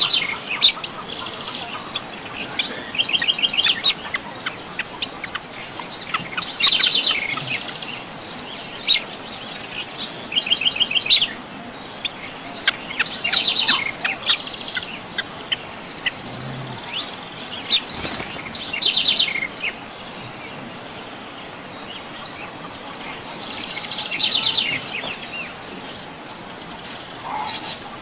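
Songbirds chirping and singing, with a short, rapid trilled phrase repeated every few seconds among many sharp high chirps.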